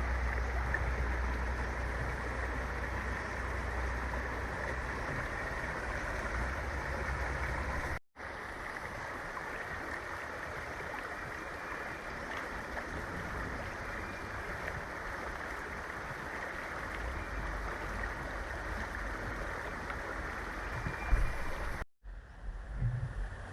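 Fast-flowing river water rushing, a steady dense noise, cut off for an instant twice: about eight seconds in and near the end.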